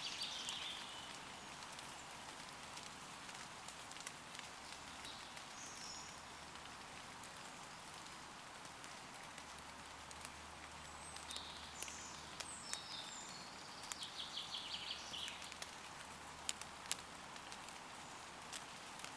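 Steady light rain falling on forest leaves, with individual drops ticking close by. Woodland birds chirp now and then, with a quick run of high repeated notes a little after halfway.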